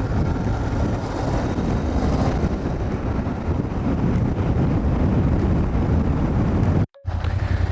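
Cafe racer motorcycle riding along, its engine running steadily under heavy wind rush on the microphone. The sound breaks off for a split second near the end.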